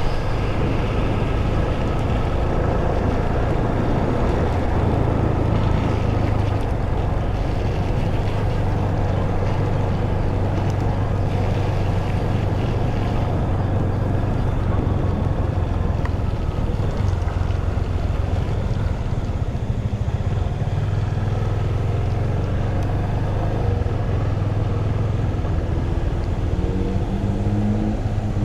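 Yamaha FZ25's single-cylinder engine running steadily while riding, with wind rushing over the microphone. Near the end the engine note rises as the bike accelerates.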